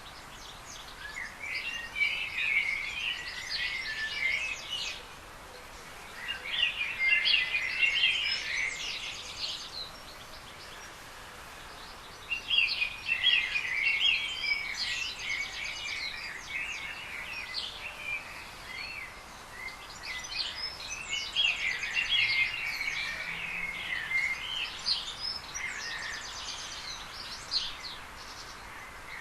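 A songbird singing in four or five long phrases of quick, varied chirps and trills, with pauses of a second or two between phrases, over a steady background hiss.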